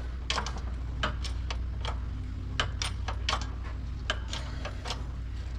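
Light, irregular metal clicks and ticks from tools and parts being handled while the impeller is pressed onto the water pump shaft, over a steady low hum.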